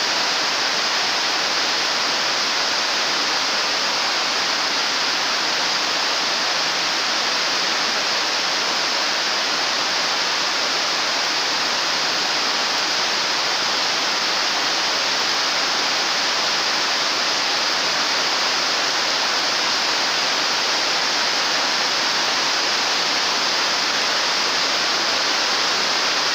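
Heavy rain pouring steadily on metal carport roofs and splashing on flooded concrete: an even, unbroken downpour with no let-up.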